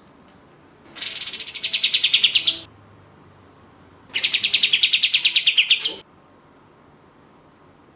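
Kapas tembak (katem) songbird singing two loud, fast trills, each about two seconds long, made of rapidly repeated high notes that fall in pitch toward the end.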